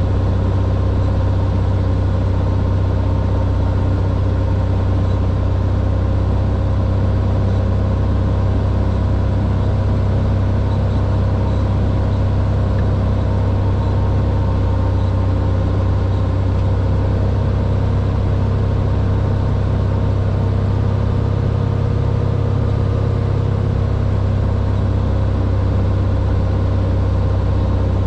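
Cessna 182R's six-cylinder Continental O-470 piston engine and propeller droning steadily at constant power, with a strong low hum and no change in pitch.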